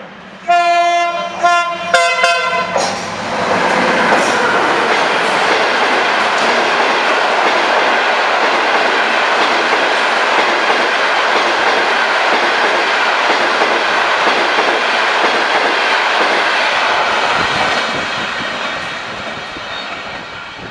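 Passenger train's horn sounding one long blast and two short ones, then the train running past at speed: a loud, steady rush of wheels on rail with clickety-clack, easing off near the end as it goes away.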